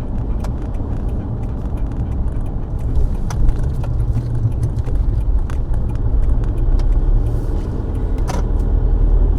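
Road and engine noise heard inside a moving car's cabin: a steady low rumble, with a few small, irregular clicks and rattles.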